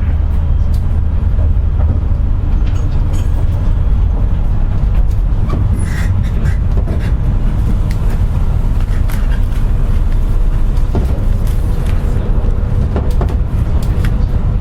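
Interior running noise of a JR West 201 series armature-chopper electric train's motor car, a steady low rumble with scattered short clicks from the wheels on the track, as the train runs slowly.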